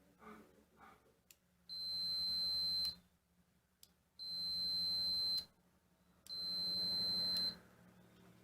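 Three long electronic beeps on one high steady tone, each lasting a little over a second and spaced about two seconds apart, with small clicks between them.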